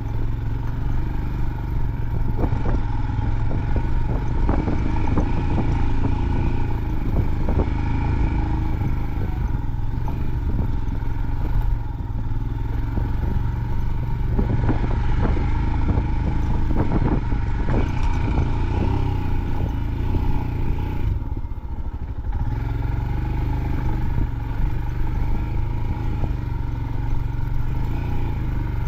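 Motorcycle engine running steadily as the bike climbs a rough off-road hill trail, with frequent clattering knocks and rattles from the bike jolting over the rough ground. The engine eases off briefly about three-quarters of the way through, then picks up again.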